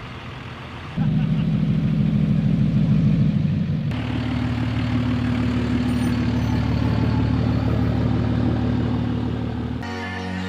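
Truck engine running, heard in short edited clips: the sound jumps abruptly louder with a fast pulsing beat about a second in, changes to a steadier tone about four seconds in, and cuts again just before the end.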